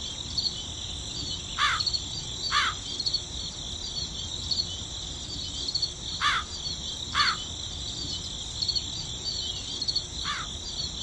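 Crickets chirping in a steady, high, pulsing chorus. A shorter call comes in pairs three times over it.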